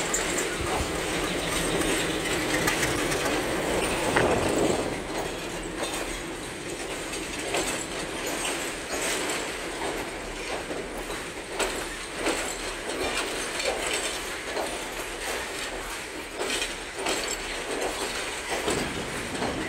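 Railway passenger coaches rolling past at low speed, their wheels knocking over rail joints in an irregular clickety-clack.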